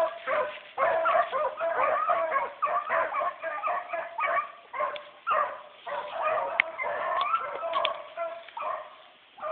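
A pack of rabbit hounds baying and yelping without pause as they run a rabbit's track, several dogs' voices overlapping.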